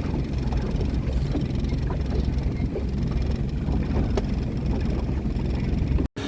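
Steady low rumble of aircraft engines, mixed with wind on the microphone, cut off suddenly near the end.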